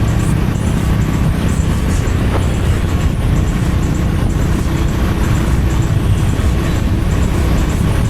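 Honda H'ness CB350's air-cooled single-cylinder engine and exhaust running steadily under way, with a low, even rumble.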